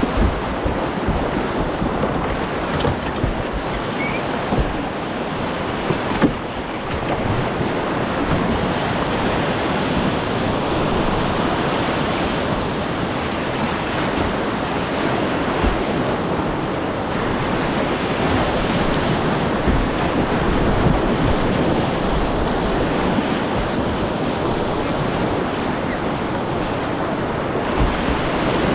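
Whitewater of a mountain river rushing steadily, heard close from a kayak on the water, with occasional low thumps and wind on the microphone.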